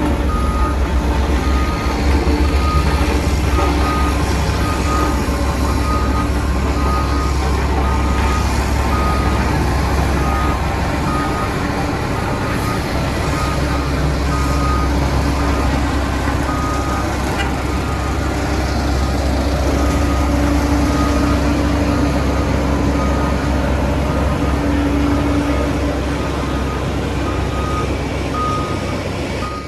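Heavy diesel construction machinery running with a low steady engine rumble, while a reversing alarm beeps repeatedly at an even pace.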